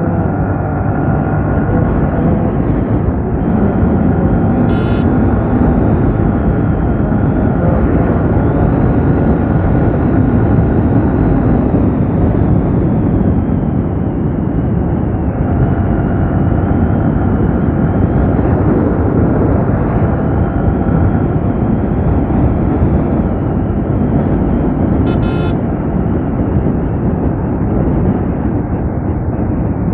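Yamaha R15 V3's single-cylinder engine and stock exhaust running steadily at highway cruising speed, with a heavy rush of wind noise. Two short, sharp sounds cut through, about five seconds in and again near twenty-five seconds.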